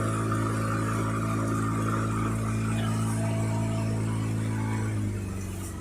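A boat's motor running steadily at cruising speed. About five seconds in, its note drops and quietens as it slows.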